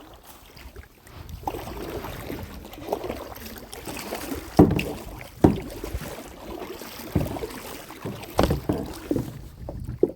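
Irregular knocks and bumps of handling in a kayak, with a few sharp thumps about halfway through and again near the end.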